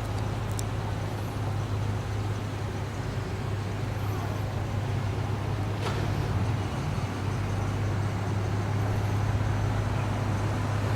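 Road traffic: a steady low engine rumble of vehicles on a town street, with a light click about half a second in and another about six seconds in.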